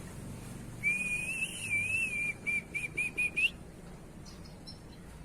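White-rumped shama singing: a wavering whistled phrase about a second and a half long, then five short quick notes ending on a rising note.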